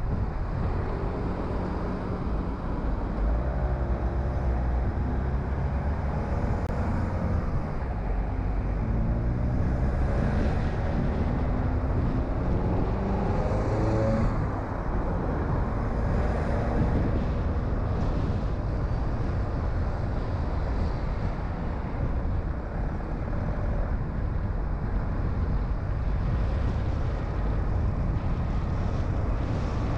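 Car on the move: steady engine, tyre and wind noise. The engine note climbs in the middle and drops suddenly about fourteen seconds in, as when the car shifts up a gear.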